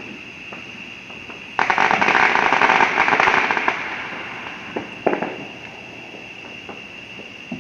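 Fireworks crackling: about a second and a half in, a sudden dense burst of crackling lasts about two seconds and fades, followed by a couple of single sharp pops. A steady high-pitched tone runs underneath throughout.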